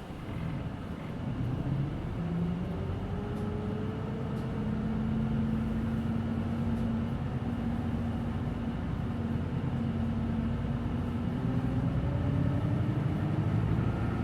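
Cabin sound of a Hino Blue Ribbon City Hybrid diesel-electric city bus running. It grows louder after about a second, with a tone that climbs steadily over several seconds as the bus gathers speed, over a steady low drone.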